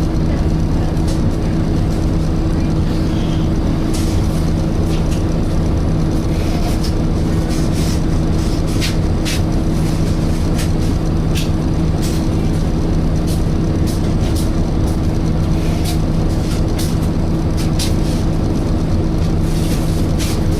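Volvo B7TL double-decker bus heard from inside while it runs: a steady hoover-like drone from the engine cooling fan, holding one low tone, over the engine rumble. Frequent short rattles and clicks are heard throughout.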